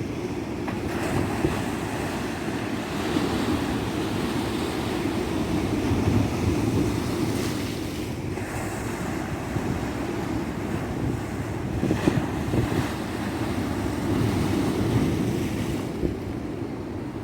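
Tropical ocean surf breaking and washing up on a sandy beach, a continuous rush that swells and ebbs every few seconds as waves come in.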